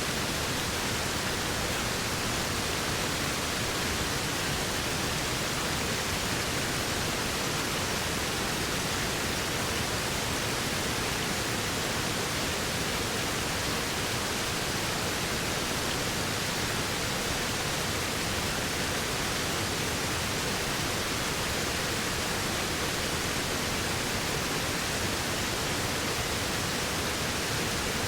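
Waterfall: a steady, unbroken rush of falling water, even and hiss-like, with no changes or separate splashes.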